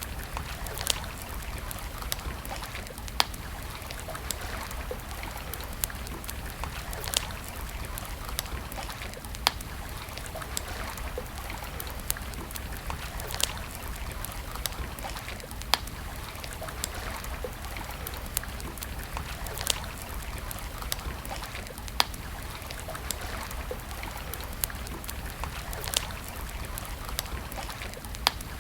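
Campfire crackling: sharp pops and snaps at irregular intervals, about one a second, over a steady rushing hiss.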